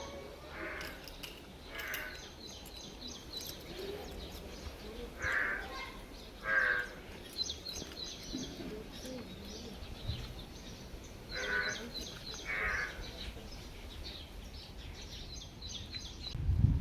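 Crow cawing, three times in a pair of short calls, over the steady high chirping of small birds. A loud low rumble starts just at the end.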